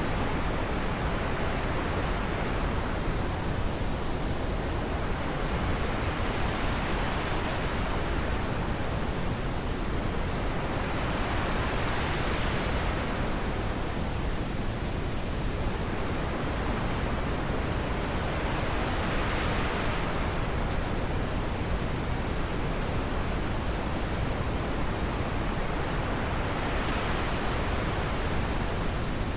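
Wind blowing steadily, a continuous rushing noise whose pitch slowly falls and rises in gusts every several seconds.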